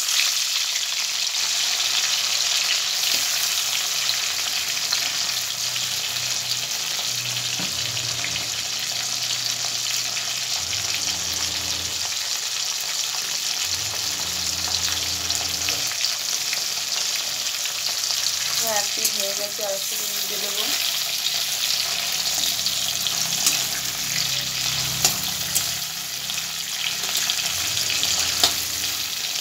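Large prawns frying in hot mustard oil in a metal kadai, a steady sizzle throughout. A metal spatula clicks against the pan a few times near the end.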